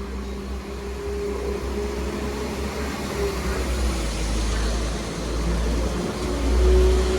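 Class 197 diesel multiple unit pulling away from the platform, its underfloor diesel engines giving a steady low drone with a held tone, growing louder about six seconds in.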